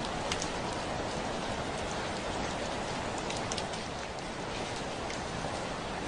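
Heavy rain falling steadily on a window, a dense even patter with scattered sharper drop taps.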